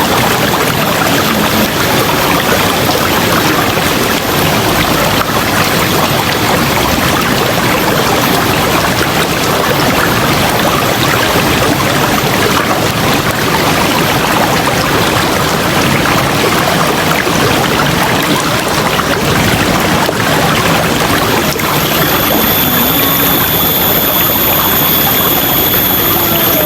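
River water flowing, a steady dense rush with no let-up. A thin, steady high tone comes in near the end.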